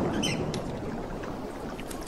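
A steady low rushing noise with a short high bird chirp about a quarter second in.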